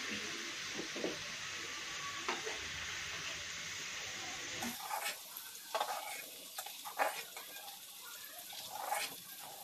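Paneer cubes sizzling as they fry in ghee in an iron kadai, with a spoon scraping and tapping the pan as they are turned. About halfway through the steady sizzle drops off abruptly, leaving quieter frying and separate scrapes and taps.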